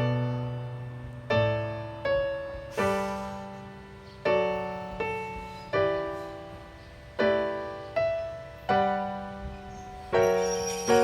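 Slow piano music: chords struck about every second and a half, each ringing and dying away before the next.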